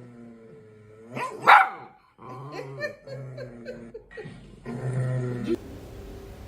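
A dog vocalizing in several drawn-out, wavering whines and moans, with one short sharp bark about a second and a half in.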